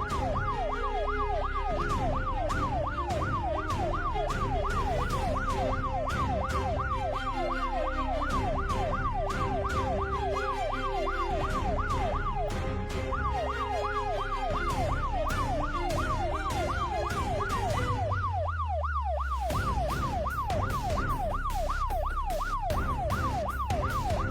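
Police siren in fast yelp mode, its pitch rising and falling several times a second without a break. Background music with a steady beat plays under it and briefly drops out with a falling bass note about 18 seconds in.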